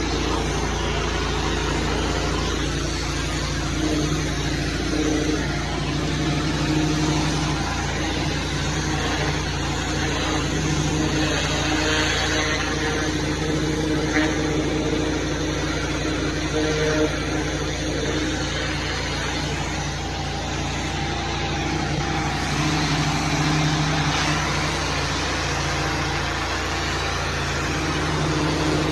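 Small petrol engine running steadily with a constant drone and a broad rushing hiss over it, typical of cleaning equipment at work on concrete.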